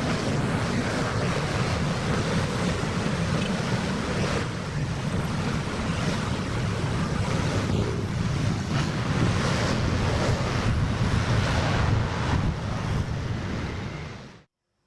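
Wind blowing hard on the microphone: a loud, steady rushing rumble with gusts, fading out near the end.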